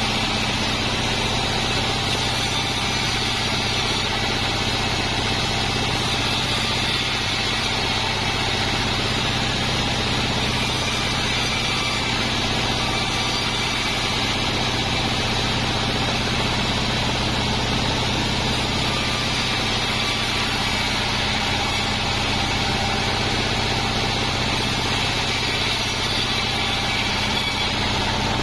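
Sawmill band saw running steadily, a continuous mechanical hum with an even level and no breaks.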